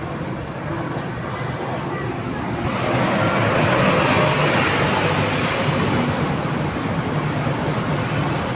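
Bus engine running with a steady low hum; a few seconds in, a broad rush of noise swells up and slowly eases off.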